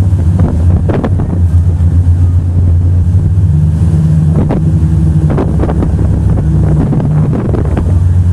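Motorboat engine running steadily, with wind buffeting the microphone and a few short sharp knocks or slaps.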